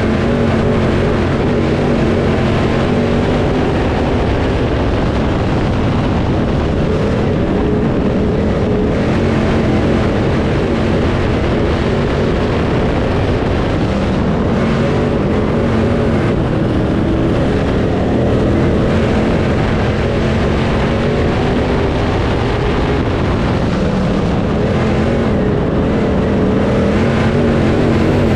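Dirt late model race car's V8 engine running hard at racing speed, its pitch wavering gently up and down with no let-up.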